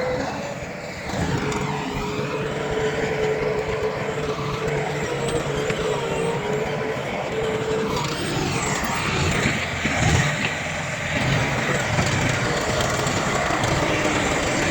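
Heavy diesel earthmoving machinery, a bulldozer and dump trucks, running steadily with a held whine for the first several seconds and the pitch rising and falling a little later.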